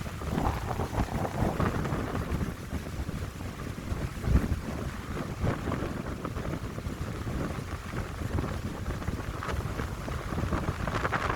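Wind gusting through a coastal pine grove, with the wind buffeting the microphone in uneven low rumbles that rise and fall with each gust.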